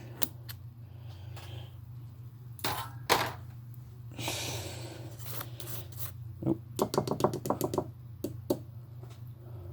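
Small plastic RC-car parts being handled and fitted together on a tabletop: scattered clicks and light knocks, a short hiss about four seconds in, and a quick run of clicks later on, over a steady low hum.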